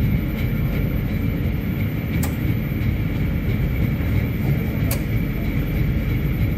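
Regional-express coach running behind a DB class 112 electric locomotive, heard at the coupled end: a steady, loud rumble of wheels and running gear on the rails, with a faint steady high tone. Two sharp clicks, about two and five seconds in.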